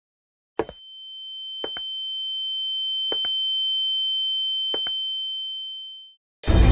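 Slow footsteps of shoes on a tiled floor, four heel-and-toe steps spaced further and further apart. Under them a single high steady electronic tone swells and then fades out. Loud music starts just before the end.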